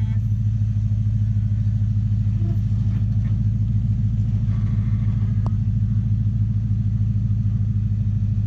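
A four-wheel-drive's engine running steadily at low revs, an even low drone that neither rises nor falls, with a faint tick or two.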